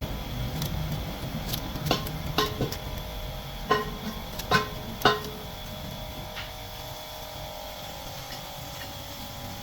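Sharp metallic clinks of tools and metal parts being handled, with a short ring after each; the louder ones come in a cluster of about five between two and five seconds in, over a steady background hum.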